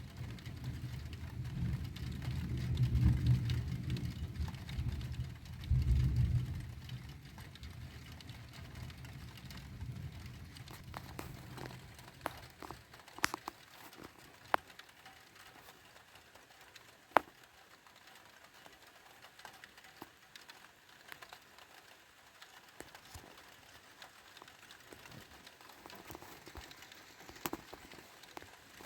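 Thunder rumbling low, swelling twice and dying away about twelve seconds in, followed by scattered sharp ticks of raindrops.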